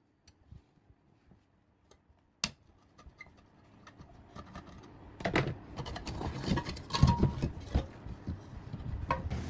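Hand work on metal generator parts: a few faint clicks, one sharper click about two and a half seconds in, then from about five seconds a busy run of clattering, knocking and scraping.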